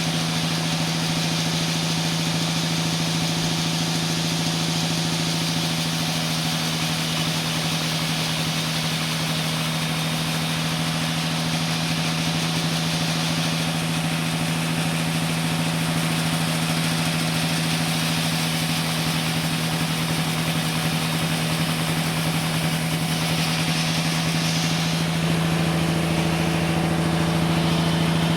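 Sawmill machinery running steadily: a constant low hum with an even hiss above it, a little louder near the end, where a deeper drone joins in.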